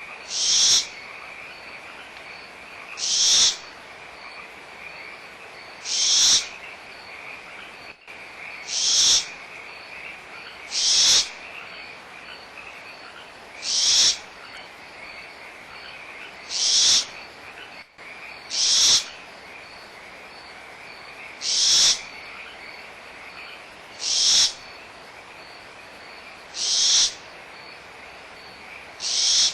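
Barn owl nestlings giving loud, rasping hiss calls about every two and a half seconds, about a dozen in all, typical of young barn owls begging for food. A steady frog chorus trills behind them throughout.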